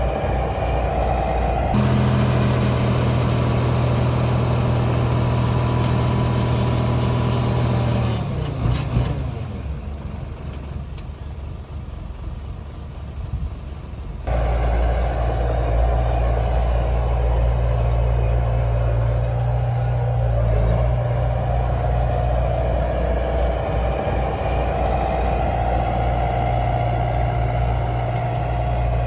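Heavy diesel earthmoving machinery running steadily. The sound changes abruptly about two seconds in, dips quieter for several seconds in the middle, then comes back loud about halfway through.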